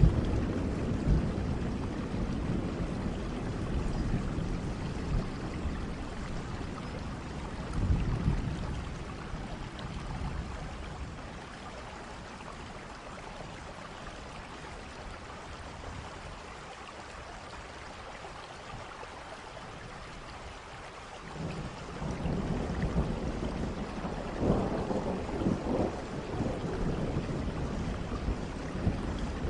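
Steady rain with rolling thunder. A low rumble dies away over the first few seconds and another swells briefly around eight seconds in; then mostly rain alone until thunder rolls in again about two-thirds of the way through, with sharper cracks near the end.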